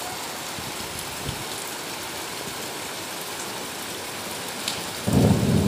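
Heavy rain falling steadily. Near the end a loud, low rumble of thunder breaks in.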